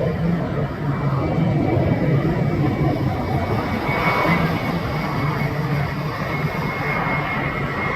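US Navy F-35C's single Pratt & Whitney F135 turbofan, a steady jet rumble with a thin high whine running through it.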